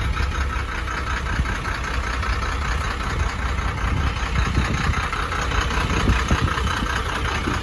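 1991 Ford F600 dump truck's inline six-cylinder turbo diesel idling steadily, just after starting.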